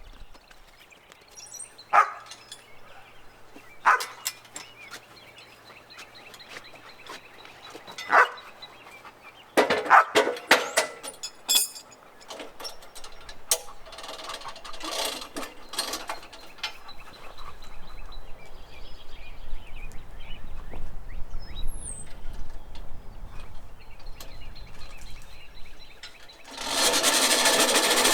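Scattered knocks and clatters of wood being handled. Near the end, a loud steady rasp starts: the band blade of a Frontier portable sawmill cutting through a black walnut log.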